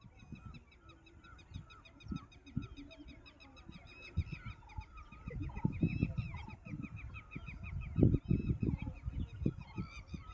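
Geese and other waterfowl calling, many short calls in quick succession. Irregular low rumbling thumps throughout, louder from about the middle on.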